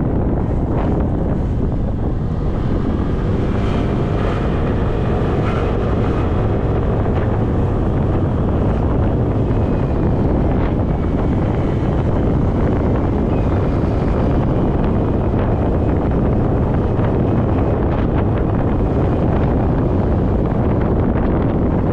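Heavy wind rushing over a GoPro microphone on a moving motorcycle, with the motorcycle's engine running faintly beneath it.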